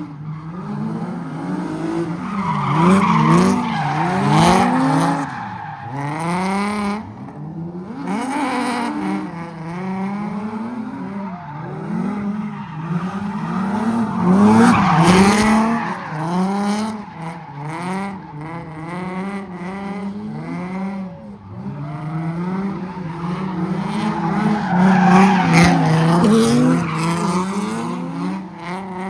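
Car engines revving up and down over and over with tire squeal, as cars spin in a car pit. The engine pitch climbs and drops in quick cycles, with louder swells about three seconds in, midway through and near the end.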